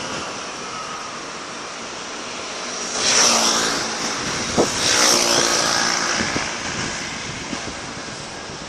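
Fireworks display: two loud swells of hissing and crackling about three and five seconds in, with one sharp bang between them, over a steady outdoor noise of crowd and wind.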